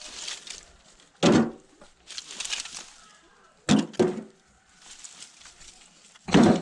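Pieces of firewood and bark being thrown down and handled: four loud knocks, one about a second in, two close together in the middle and one near the end, with scraping and rustling between.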